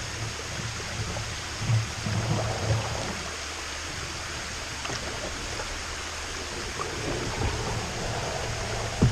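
Steady rush of running water from a small waterfall, with a few soft low knocks about two seconds in.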